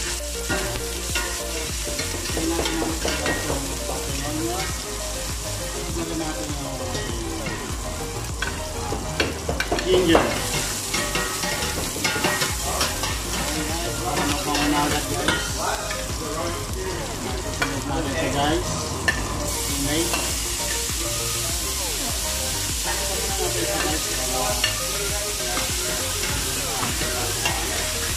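Sliced onions sautéing in a large stainless steel stockpot: steady sizzling, with a metal utensil stirring and scraping against the pot. The sizzle gets brighter partway through.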